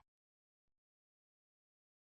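Near silence: a digital gap between recorded phrases.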